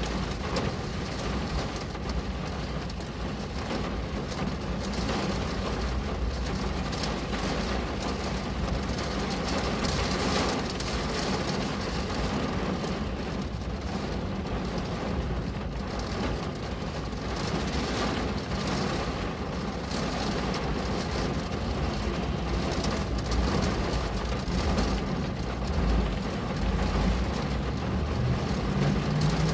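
Steady rain falling on a window, with a low rumble and a faint hum underneath that swells again near the end.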